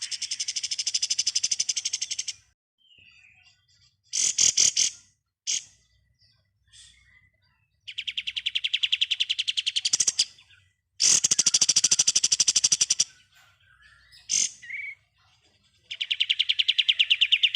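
Kapas tembak songbird singing its fast, rattling 'ngebren' trill: four long high trills of about two seconds each, with short chirps between them.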